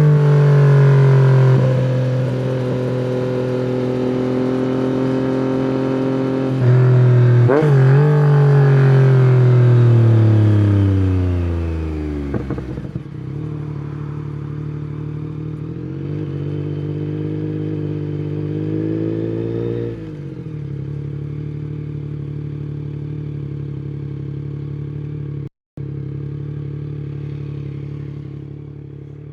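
Yamaha MT-09's three-cylinder engine through an Akrapovic exhaust: running hard at first, with a quick wobble in pitch about eight seconds in, then falling steadily in pitch as the bike slows down. It then settles to a low, steady idle-like run with one gentle rise and fall in the middle, and the sound cuts out briefly near the end.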